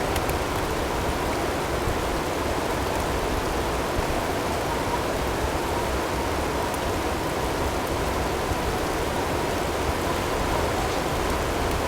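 Steady blizzard ambience of wind with hail, an even rushing noise with a few faint ticks. A faint steady tone sits underneath it.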